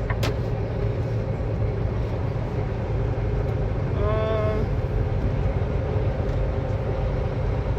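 Steady low engine and road rumble inside a moving semi-truck's cab, with a click just after the start and a brief pitched whine about four seconds in.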